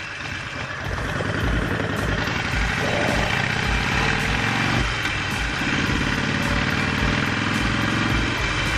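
Harley-Davidson Sportster 48's air-cooled V-twin idling with an uneven beat, getting louder about a second in.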